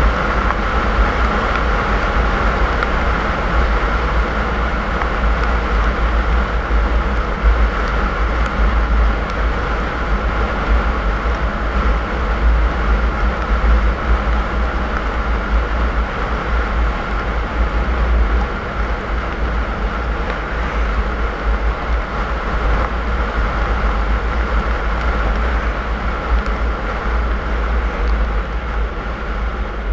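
Car driving at steady speed: a continuous low rumble of engine and tyre noise with an even hiss over it.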